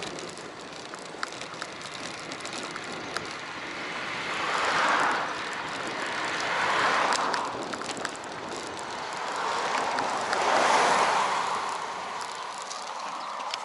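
Riding noise of a bicycle recorded on an action camera: an even rush of wind and road noise that swells up and dies down three times.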